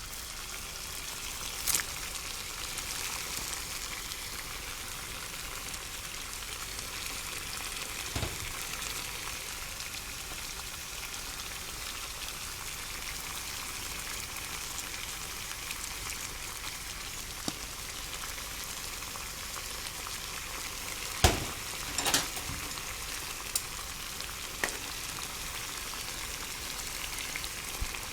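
A pot of salted water boiling with cicadas in it: a steady hissing bubble, broken by a few sharp knocks, two of them close together about three quarters of the way through.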